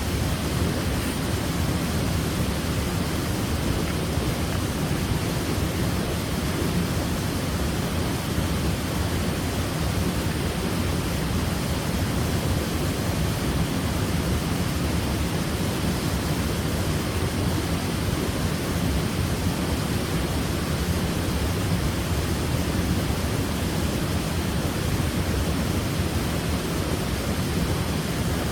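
Waterfall: falling water crashing steadily into a pool, an even, full rushing noise weighted toward the low end, with no change in level.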